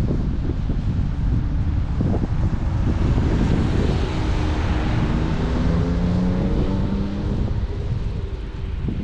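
Wind buffeting an action camera's microphone while cycling, a steady low rumble. In the middle a passing motor vehicle adds a pitched hum that slides slightly down in pitch before fading.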